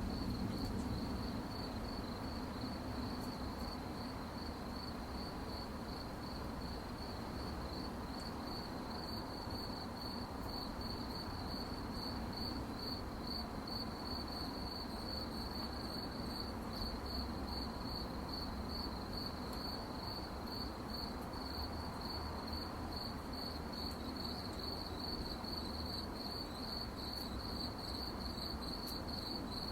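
Crickets chirping at night: one high, steady, rapidly pulsing note that carries on without a break, over a low background rumble.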